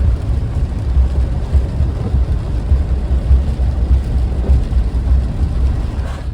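Wind buffeting the microphone in storm gusts: a loud, uneven low rumble that cuts off abruptly at the end.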